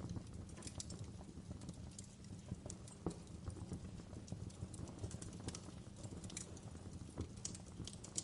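Wood fire crackling: irregular sharp pops and snaps, a few a second, over a low steady rumble of burning.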